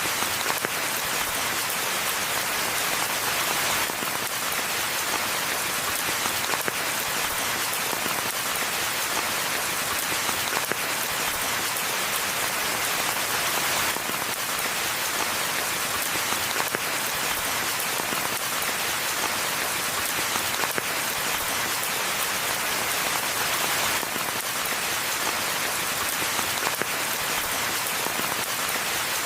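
Steady rain falling, a dense, even hiss made of countless small drop hits.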